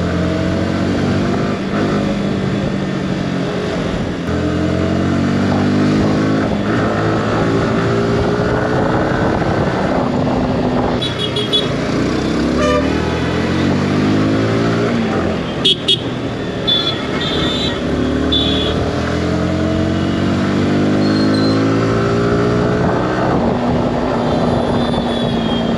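Yamaha R15 V4's 155 cc single-cylinder engine running under way, its pitch rising and dropping repeatedly as it accelerates and shifts through the gears. Vehicle horns beep in short bursts several times, mostly around the middle and again near the end.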